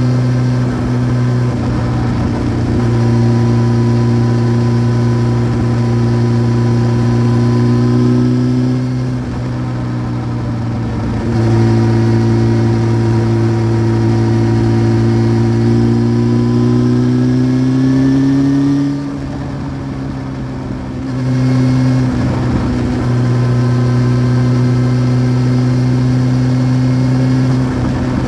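1993 Honda CBR900RR Fireblade (SC28) inline-four engine through a Remus exhaust, running at steady revs on the road. Through the middle the revs climb slowly, then the note drops away and goes quieter for about two seconds before settling back to a steady run.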